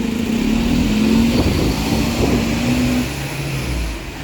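Bus engine running as the bus pulls away, its note climbing a little about a second in, then dropping to a lower note about three seconds in.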